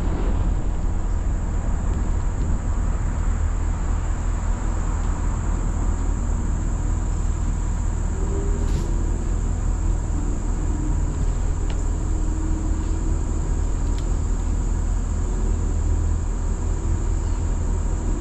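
Auto loader tow truck's engine running steadily with a low rumble, with a steady high insect-like buzz above it.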